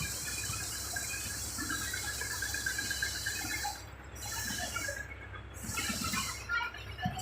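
Steady low rumble with a constant hiss, the running noise of a moving passenger vehicle, with faint scattered background sounds.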